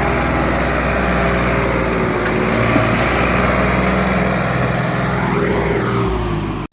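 Tractor diesel engine running steadily, its pitch drifting slightly up and down.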